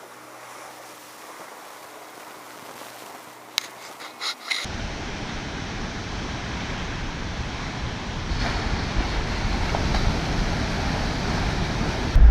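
Steady rushing noise of wind and water, with wind buffeting the microphone, which starts abruptly about four and a half seconds in and slowly grows louder. Before it there is a quieter low hum with a few clicks.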